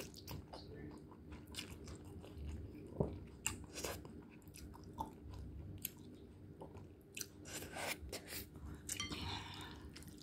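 Close-up mouth sounds of a person chewing Buldak spicy cheese instant noodles: irregular wet smacks and small clicks.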